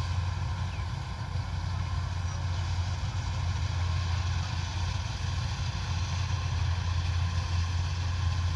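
Kubota DC-105X combine harvester's diesel engine running steadily: a deep, even drone with no change in speed.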